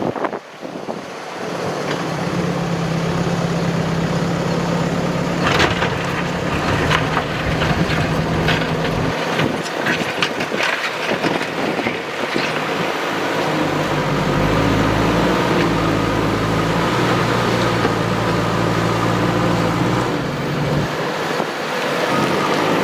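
Diesel engine of heavy earthmoving machinery running steadily, its note dropping lower and heavier about halfway through, with a scatter of knocks and clatter in the first half.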